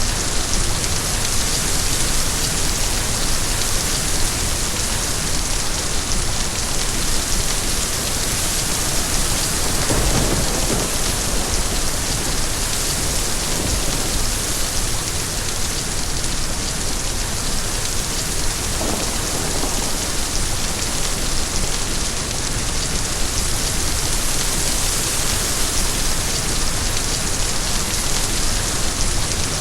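Steady heavy rain, an even hiss throughout. A low rumble swells about ten seconds in, and a fainter one comes about two-thirds of the way through.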